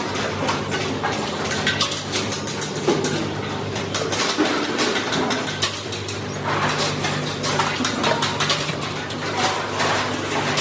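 Metal parts clinking and knocking against each other over a steady machine hum, as on a factory floor.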